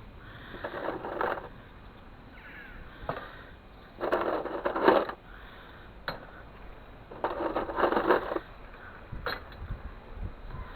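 Metal scraping and clinking in three rattling bursts of about a second each, with single sharp clicks between them.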